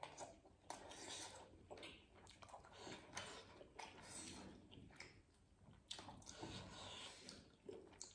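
Faint chewing and wet mouth sounds of people eating steamed chicken momos, with short, irregular soft smacks.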